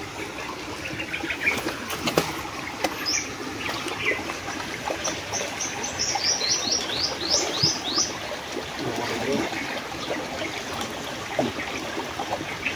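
A bird sings a quick run of high, falling notes for about three seconds midway through, over the steady trickle and splashing of shallow creek water.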